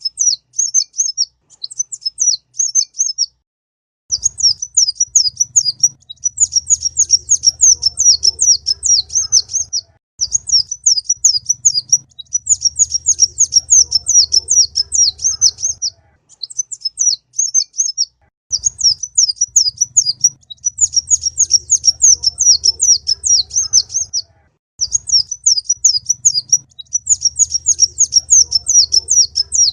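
Olive-backed sunbird ('kolibri ninja') singing: rapid, high twittering chirps in phrases of a few seconds, separated by short pauses, with a faint low hum under the louder phrases.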